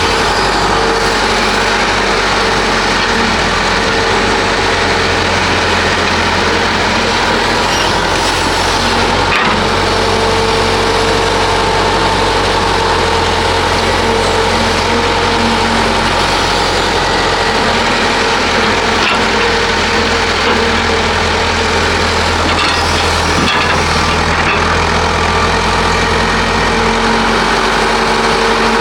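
Diesel engine of heavy construction machinery running steadily under load, with a constant low hum and a little variation in level.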